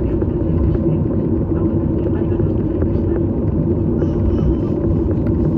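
Airliner cabin noise heard from a window seat: a loud, steady, low rumble of engines and airflow, with a hum and no distinct events.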